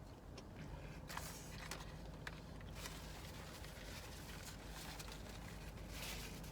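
Close-up mouth sounds of biting and chewing corn on the cob: scattered wet clicks and a few short crunchy smacks, over a low steady hum.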